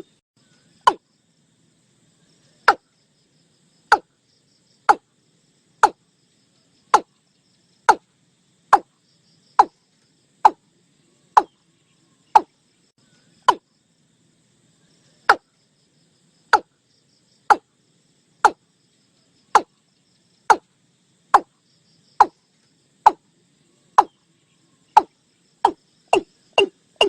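Watercock calling: a series of short, hollow notes, each falling in pitch, about one a second, quickening into a rapid run near the end.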